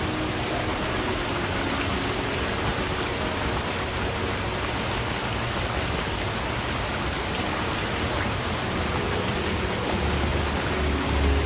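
Forest stream running steadily, an even wash of water noise. A low rumble comes in near the end.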